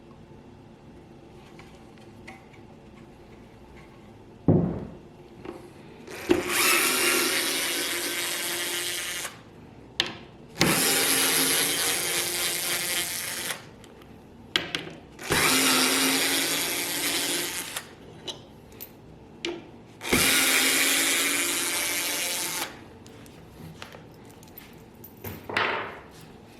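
A power tool run four times in bursts of about three seconds each, with a knock just before most runs and a loud thump about four and a half seconds in.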